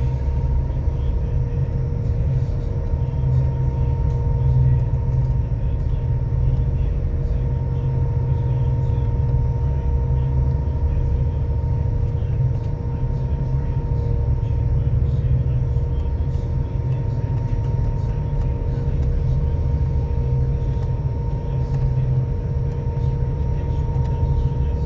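Ferry's engines droning steadily: a deep, constant rumble with a steady hum on top.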